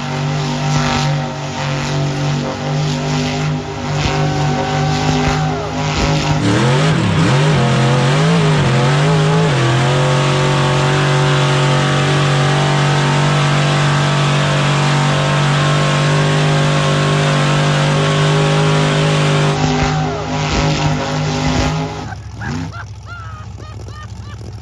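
Monster truck engine running hard at high revs, the note held steady for long stretches, wavering up and down about a third of the way in, then dropping off near the end.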